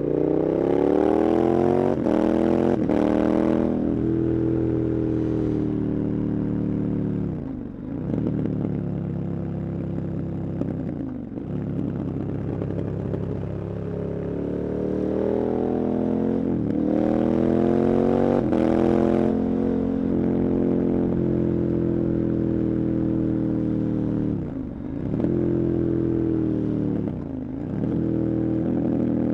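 KTM 1290 Super Adventure's 1301 cc V-twin engine pulling hard under throttle, its pitch climbing and then dipping sharply several times as it changes gear.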